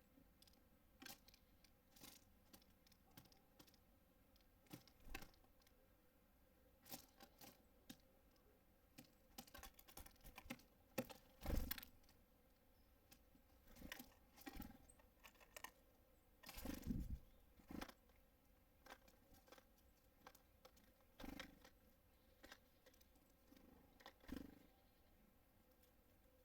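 Irregular small taps and knocks of birds landing on a bird feeder and pecking at the seed, with two louder thumps, one near the middle and one about two-thirds of the way through.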